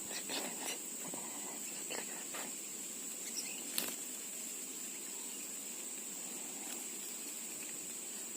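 A steady high-pitched insect drone, with faint scattered rustles and clicks in the first few seconds.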